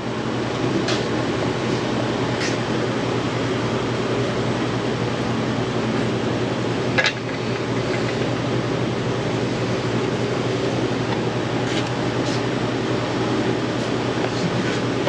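A steady mechanical hum, with a few light clicks and taps over it.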